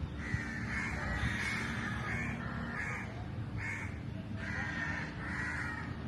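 A bird calling repeatedly, about seven short calls in a row, over a steady low background hum.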